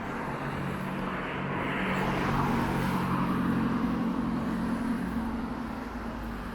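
A motor vehicle passing on a wet street: engine hum and tyre hiss swell to a peak a few seconds in, then fade.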